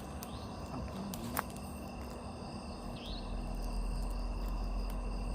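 Night insects, crickets among them, chirping steadily in several high, unbroken tones. A single sharp click comes about a second and a half in, and a low rumble joins from about three seconds in.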